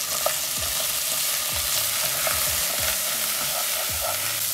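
Freshly added broccoli florets frying with a steady sizzle in hot coconut oil in a saucepan, stirred with a wooden spatula that scrapes and taps the pan, with one sharp tap about a quarter second in.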